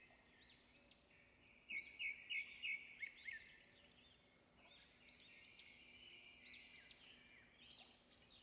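Faint birdsong: many short chirping calls throughout, with a louder run of quick repeated notes about two seconds in.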